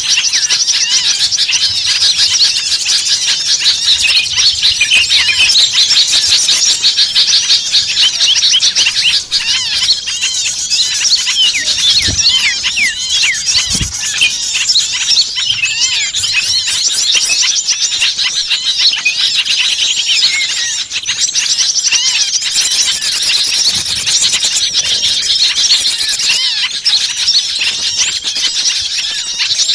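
A dense flock of small songbirds all calling at once: a steady, busy chatter of high, rapid chirps and trills with no pause, the agitated mixed-species commotion used as a lure to draw small birds in. Two soft low thumps come about twelve and fourteen seconds in.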